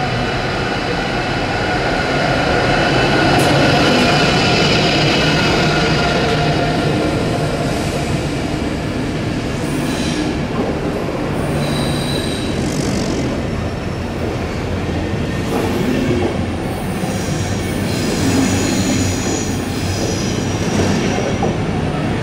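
A train rolling slowly with its wheels squealing on the rails in several held high tones, loudest about three to four seconds in, then shorter high squeals near the middle and again towards the end.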